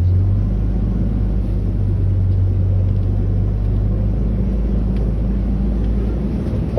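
Safari ride truck's engine running under load with a low, steady drone, easing off after about four seconds.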